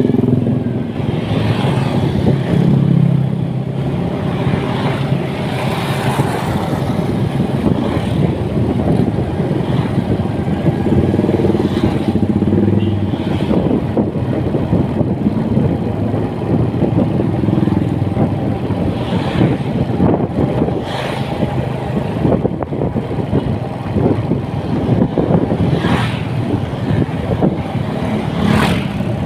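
Motorcycle engine running steadily while riding on the road, with heavy wind noise rushing over the microphone and occasional brief gusts.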